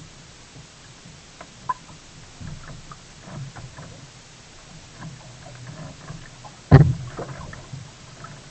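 Sea kayak on the move: small scattered ticks and water sounds over a low steady rumble, with one loud knock about two-thirds of the way through.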